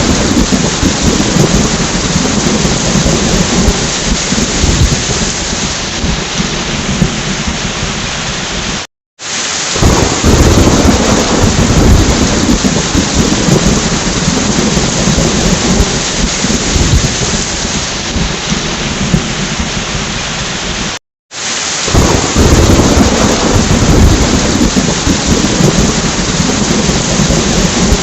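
Heavy rain with rolling thunder rumbling low underneath. The sound cuts out completely for a moment twice, about twelve seconds apart, and the rumble swells up again after each gap.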